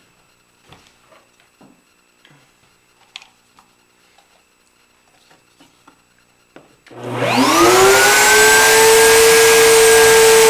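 A few light clicks and knocks of handling, then an electric router starts about seven seconds in, its motor whine rising quickly to full speed and running loud and steady.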